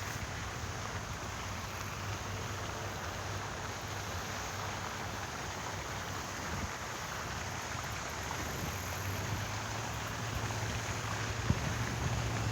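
Steady outdoor wind noise across the microphone with a low rumble, growing gustier near the end.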